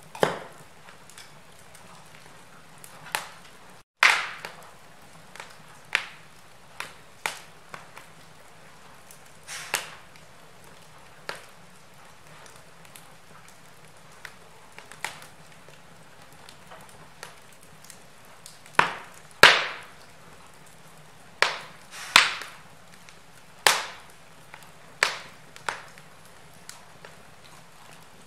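Log fire crackling in a fireplace: irregular sharp pops and snaps from burning wood over a soft steady hiss. The loudest pops cluster about two-thirds of the way through, and the sound cuts out for a split second about four seconds in.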